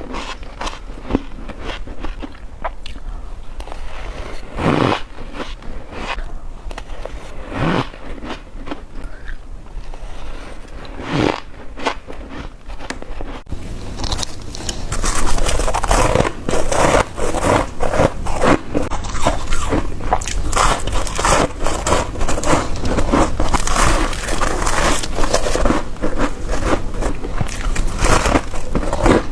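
Freezer frost being bitten and chewed close to the microphone: a few separate crunching bites spaced a few seconds apart, then from about halfway a steady run of rapid, louder crunching as a mouthful is chewed.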